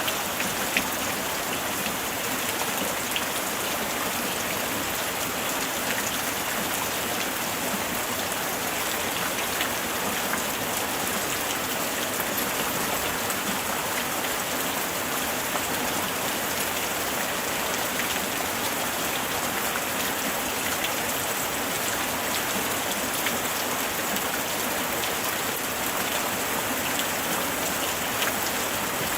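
Light rain falling steadily: a dense, even patter of drops, with here and there a single sharper drop standing out.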